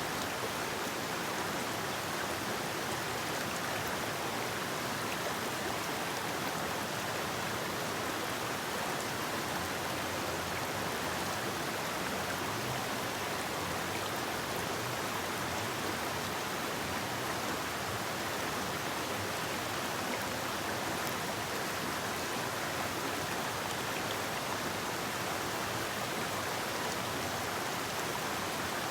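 Steady rushing of a river flowing through a forest: an even wash of water noise with no change throughout.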